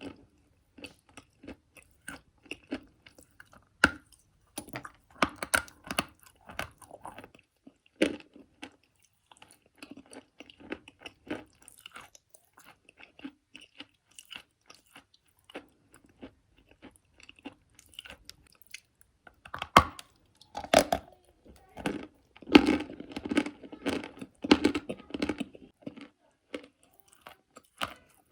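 Close-miked biting and chewing of dry chalk or clay: a steady run of short, gritty crunches. The crunching is densest and loudest about three-quarters of the way through.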